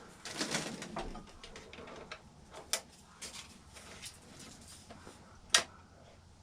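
Light handling noises of a small oil-filled radiator heater being set up: scattered clicks and small knocks over soft rustling, the sharpest click about five and a half seconds in.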